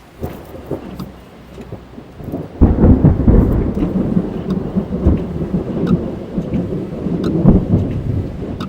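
Thunder heard from inside a car during a rainstorm. A lighter rumble swells in at first, then a heavy deep rumble breaks in about two and a half seconds in and keeps rolling, with scattered raindrops ticking on the car.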